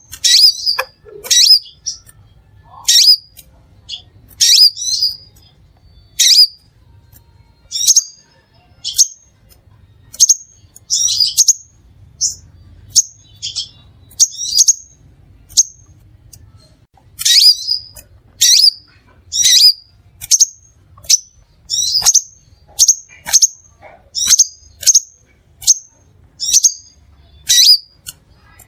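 Crimson sunbird calling: short, sharp, high-pitched chips repeated about once a second, sometimes coming in quick clusters of two or three.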